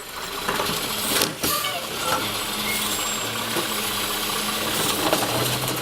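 Garbage truck running with a steady engine drone, with a single clank about a second and a half in.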